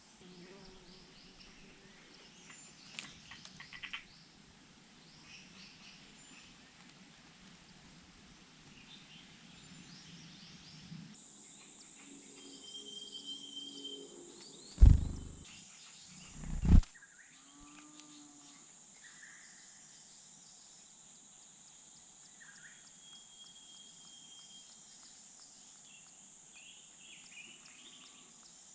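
Faint, scattered chirps of small birds over a quiet outdoor background, with two loud thumps close together about halfway through.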